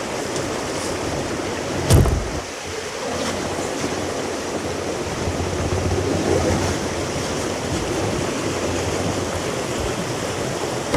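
Rushing water of a shallow, rocky river rapid, with a single loud thump about two seconds in.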